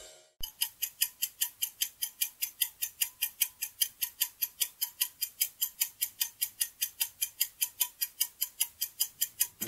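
Clock-ticking sound effect: a fast, even run of sharp ticks, about five a second, starting about half a second in. It is the countdown timer of a quiz while the answer is hidden.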